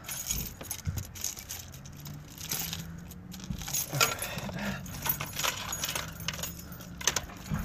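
A bunch of keys jangling and clinking in irregular bursts.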